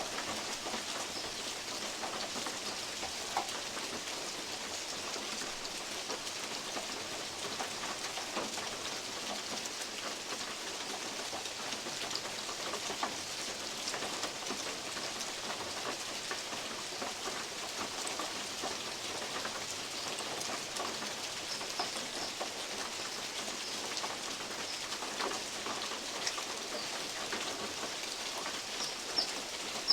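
Steady rain, with large drops falling from oak leaves onto a metal roof in scattered ticks and the odd louder knock.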